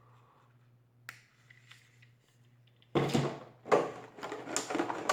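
Drone packaging being handled during unboxing: a single small click about a second in, then a run of loud rustling from about three seconds on, the loudest near the end.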